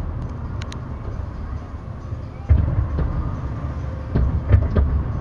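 Fireworks shells exploding in a continuous low rumble, with a heavy boom about two and a half seconds in and a quick cluster of three more booms near the end.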